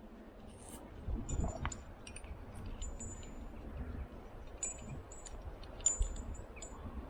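Metal climbing hardware, carabiners and rope gear, clinking and jingling irregularly, with brief high ringing after some of the knocks, over a low rumble of handling and wind.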